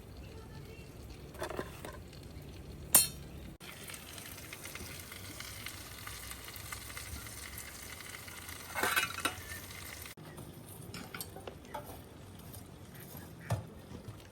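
Food sizzling over the fire, with utensils stirring and clinking against the cookware. There is a sharp click about three seconds in and a short run of metal clinks about nine seconds in.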